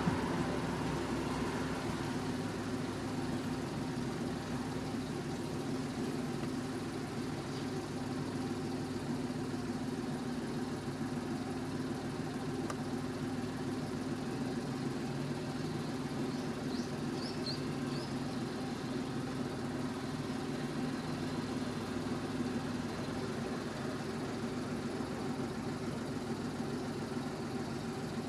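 Steady low hum of an idling vehicle engine, with a few faint short high chirps about seventeen seconds in.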